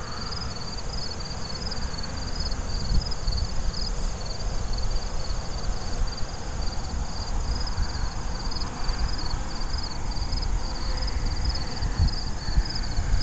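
Crickets chirping in a steady, even pulse, over an uneven low rumble of wind on the microphone.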